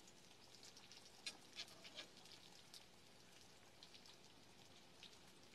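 Faint sizzle of coated okra frying in oil in a skillet, with scattered light pops and crackles.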